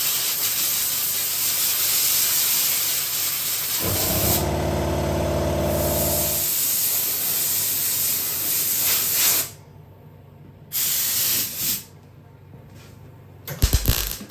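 Compressed air blasting from an air blow gun onto freshly welded sheet-metal cab panels to cool them against warpage: a steady hiss that cuts off about nine and a half seconds in, then one more short blast. A low hum sounds under the hiss for a couple of seconds near the middle, and a few sharp knocks come near the end.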